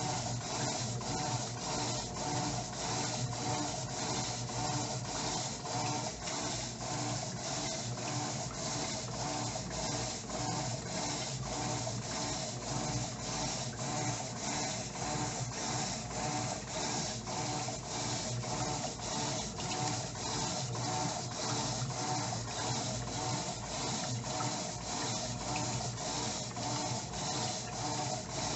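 Electrolux LTE09 top-loading washing machine agitating a load in its main wash on the heavy/dirty setting: a steady rhythmic churning of water and clothes at about two strokes a second.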